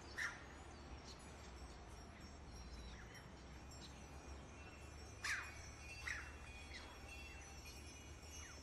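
Faint, scattered bird chirps: short falling calls every second or so, one louder chirp about five seconds in, over a faint steady low hum.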